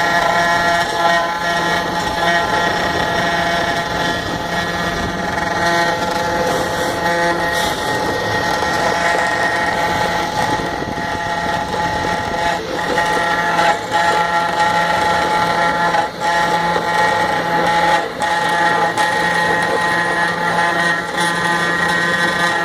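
CNC router spindle running steadily with a constant whine while it cuts into wood, with occasional faint ticks.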